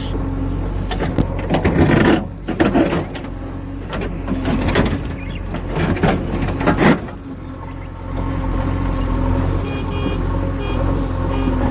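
Backhoe loader's diesel engine running steadily, with loud noisy surges about two seconds in and again from about four and a half to seven seconds. Near the end, faint short high beeps repeat over the engine.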